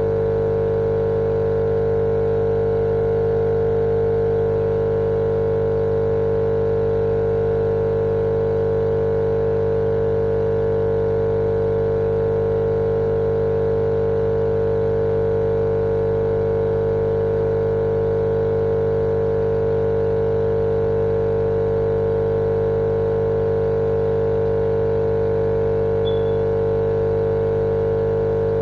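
Continuous, unchanging machine-like hum with a strong mid-pitched drone and a lower rumble, played as a steady sleep sound for babies.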